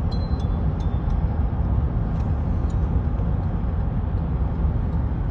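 Steady low rumble of road and engine noise from a car driving, with a few faint light ticks in the first second.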